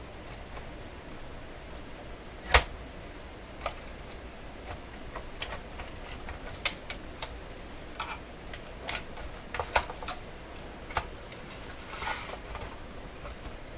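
Irregular sharp clicks and taps of small hard parts and tools being handled while a transistor radio is disassembled on a workbench, one louder knock about two and a half seconds in.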